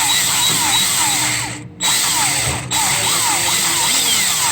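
Power drill running under load with a left-handed bit, drilling out a broken EGR bolt, with a repeated chirping squeal from the bit cutting the metal. It stops for a moment about a second and a half in, then runs on.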